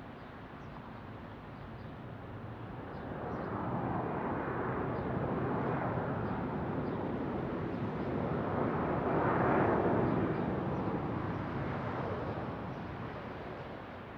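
Airliner passing, its engine noise swelling to a peak about two-thirds of the way through, then fading.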